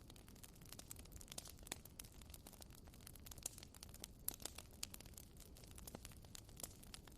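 Faint crackling of a wood bonfire: irregular sharp pops and snaps over a low steady rumble.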